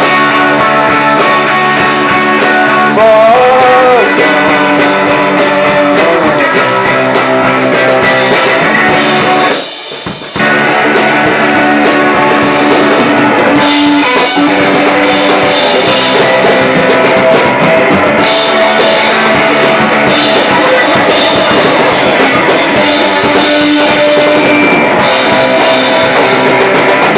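Live rock band playing a song: electric guitar and drum kit together, with a short break in the playing about ten seconds in.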